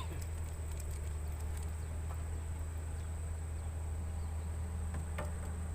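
Insects calling in a steady, high-pitched drone, over a low steady hum, with a faint brief knock near the end.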